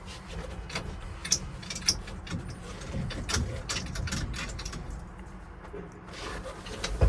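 Scattered sharp clicks and light rattles of hands working controls and keys in a pickup's cab, over a steady low rumble.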